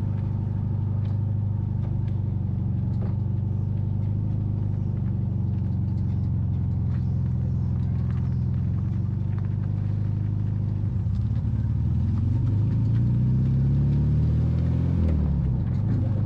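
1972 VW Super Beetle's air-cooled flat-four engine running at a steady low speed, then revving up from about eleven seconds in, its pitch rising for a few seconds before dropping back near the end.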